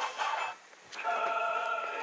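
Recorded sound-effect audio: a brief choppy sound ends about half a second in, then after a short gap a held, choir-like chord begins about a second in.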